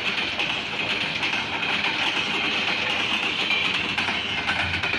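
A freight train's empty intermodal well cars rolling past close by, their steel wheels on the rails making a steady, unbroken running noise.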